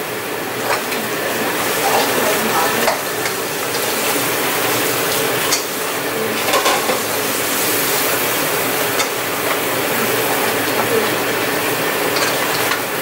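King crab leg pieces sizzling as they fry in a skillet on a gas stove, a steady hiss. A metal utensil clicks against the pan now and then as the pieces are turned.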